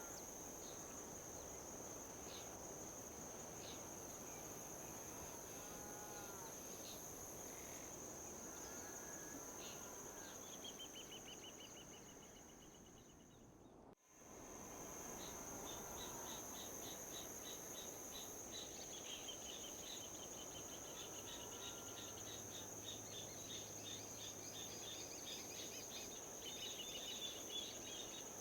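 Outdoor nature ambience: a steady high-pitched insect drone over a soft hiss of wind, with scattered short bird calls and chirping trills. About halfway through the sound fades away, cuts out for an instant and comes back.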